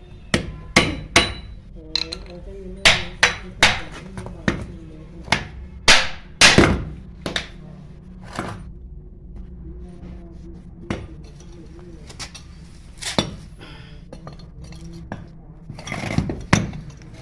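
Hammer blows and metal clinks as a 0.5 hp water pump is knocked apart: a run of sharp, irregular strikes, thick and loud in the first half and sparser later on.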